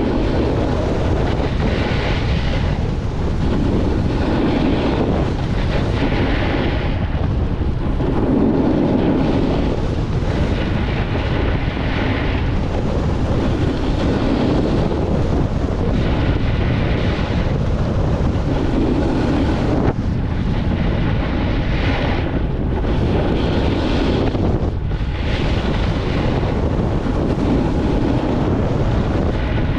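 Wind buffeting the camera microphone on a fast downhill run on snow, with swishes swelling about every two seconds as the rider turns.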